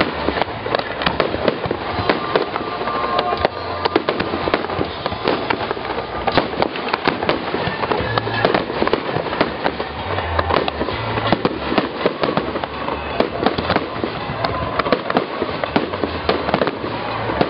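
Fireworks display: a dense, unbroken run of bangs and crackles from exploding shells, with music faintly underneath.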